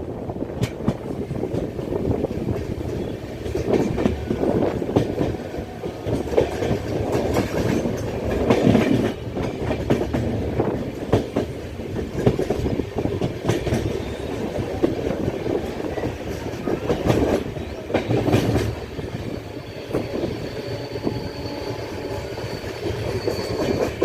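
Indian Railways express passenger train running along the track, with a steady rumble and irregular clattering of wheels over rail joints. A faint high whine comes in near the end.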